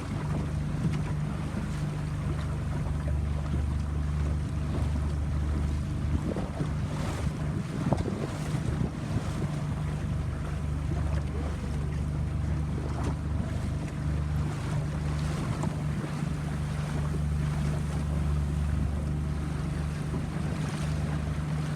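Boat engine running steadily with a low drone, with water rushing past and wind buffeting the microphone.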